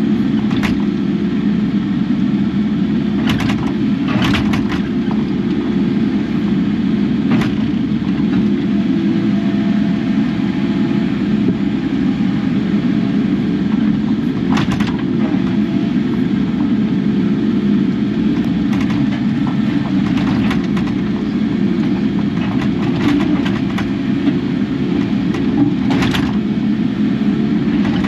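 Kubota KX080 excavator's diesel engine running steadily while working, with a sharp knock now and then from the machine.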